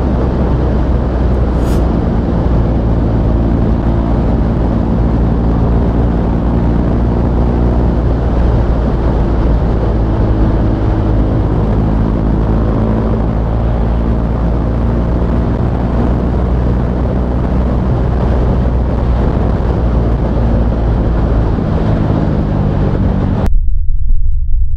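Single-cylinder engine of a KTM Duke 390 running through an aftermarket SC Project exhaust while riding. It is loud and steady, its pitch stepping up and down with throttle and gear changes. Near the end the higher sound drops out for about two seconds, leaving a loud low rumble.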